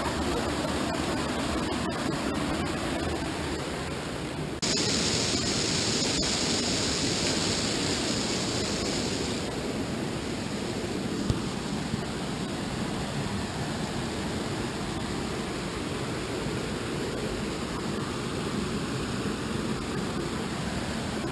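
Steady rush of flowing water from a waterfall or stream. A brighter, louder hiss joins it from about five seconds in and drops away again about five seconds later.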